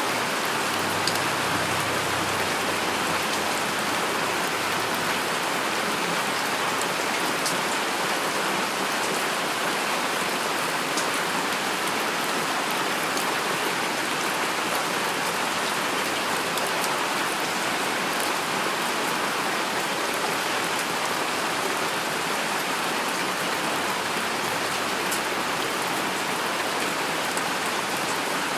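Heavy rain falling steadily: a dense, even hiss of rain with individual drops ticking here and there.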